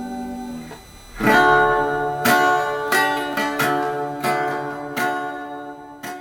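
Acoustic guitar music: a chord strummed about once a second, each left to ring out and fade, closing out the song after the last sung line.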